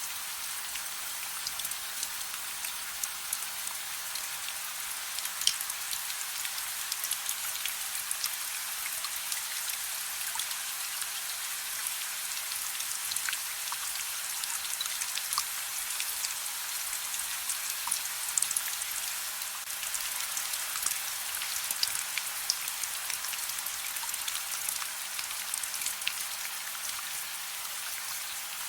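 Steady soft rain: an even hiss with scattered sharp ticks of drops striking a surface.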